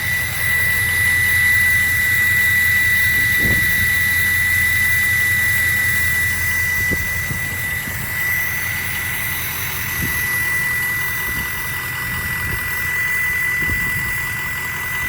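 2003 Ford F-350 turbo diesel running with its 64 mm Turbo Time Type S velocity-port turbo giving a steady high whistle over the engine's low rumble.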